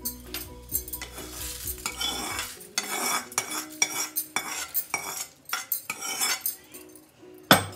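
Spoon scraping and clinking against a kadhai as the tadka of fried mustard seeds, dals and curry leaves is scraped out into curd rice: a run of short scrapes and clinks, over faint background music.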